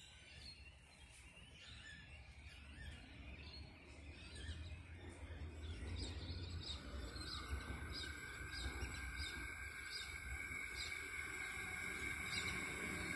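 Small birds chirping repeatedly over a low outdoor rumble. From about seven seconds in, a steady high-pitched hum grows louder as an approaching suburban train draws nearer along the track.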